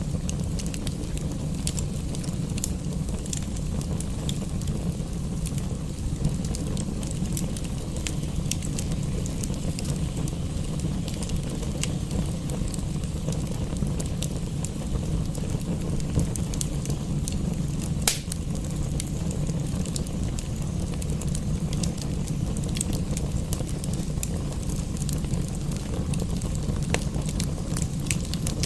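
Wood fire crackling in a fireplace: scattered sharp pops and clicks over a steady low rumble, with one louder pop about two-thirds of the way through.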